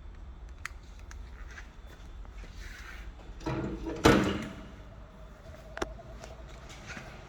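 Wood-burning stove running hot with a steady low rumble and scattered sharp crackles. A louder scraping sound is followed by a single hard knock about four seconds in.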